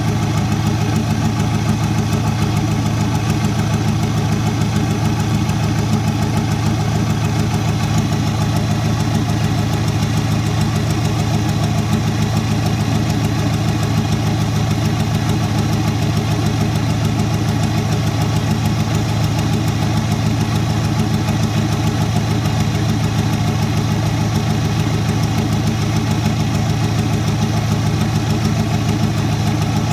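Perkins diesel engine running steadily at idle, an even, unchanging drone with no revving.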